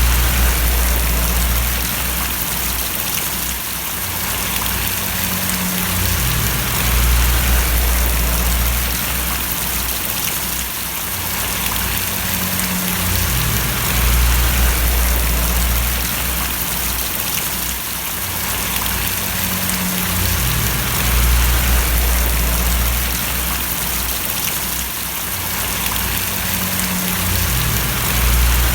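Rain falling and splashing steadily, with a low rumble underneath that swells and eases about every seven seconds.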